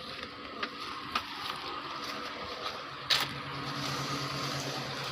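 Honda CR-V's four-cylinder engine running with a steady hum. A single sharp knock comes about three seconds in, and the low hum grows stronger from there.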